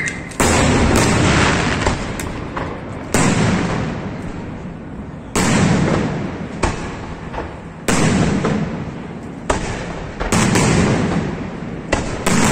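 Aerial firework shells bursting overhead: six heavy booms about every two and a half seconds, each fading away over a couple of seconds, with a few smaller cracks in between.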